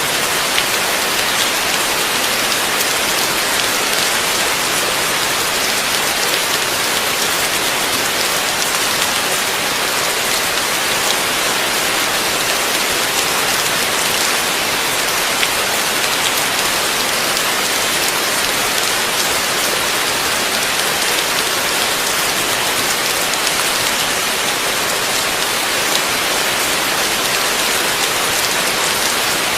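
Heavy rain falling steadily, a dense even hiss with many close drop patters on a hard surface.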